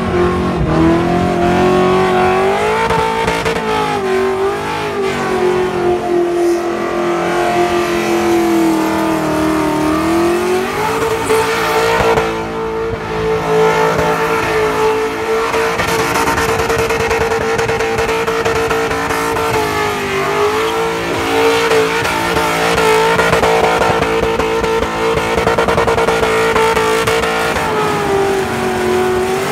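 Holden Statesman burnout car's engine held high in the revs with its rear tyres spinning in a burnout. The revs sag and come back a few seconds in and again about twenty seconds in, and climb to a higher steady pitch about ten seconds in.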